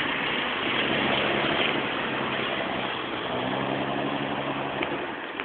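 Fiat Panda 4x4's engine running at fairly steady revs as the car drives on snow, with a steady hiss over it.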